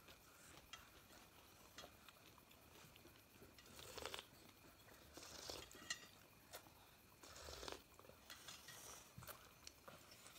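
Faint eating sounds: people chewing steamed momos, with scattered small clicks and a few brief, slightly louder noisy moments near the middle.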